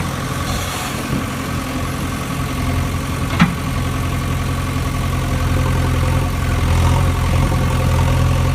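Engine idling steadily with a low, even hum, and one sharp click about three and a half seconds in.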